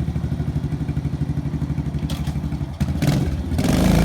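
Kawasaki KLX110's single-cylinder four-stroke engine, fully warmed up, idling with an even pulse, with a couple of short clicks about two seconds in. Near the end it revs up and gets louder as the bike gets going.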